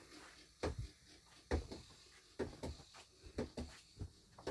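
A series of light, hard knocks and clicks, about one a second, with fainter ticks between them.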